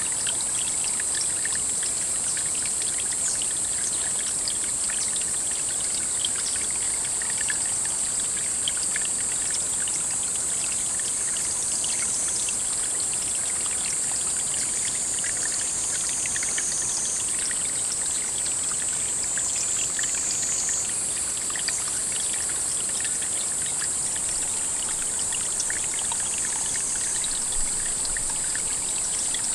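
Water trickling and running steadily into a pond, full of small crackles, under a steady high-pitched drone that shifts slightly in pitch a few times.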